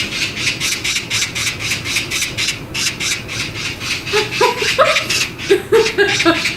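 Rhythmic rasping scratches, about four to five strokes a second, joined from about four seconds in by short pitched calls.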